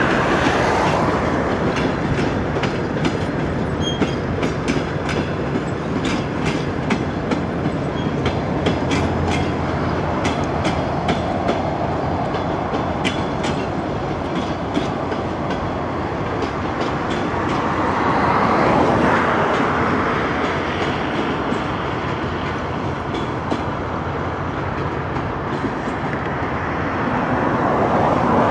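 Passenger coaches rolling past on jointed track, their wheels clicking over the rail joints over a continuous rumble. The clicking fades about halfway through, and the rumble swells twice later on.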